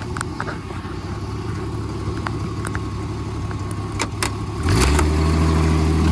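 A car engine running steadily, with a couple of sharp knocks about four seconds in. Just before five seconds the engine steps up to a louder, steady note, as if taking load.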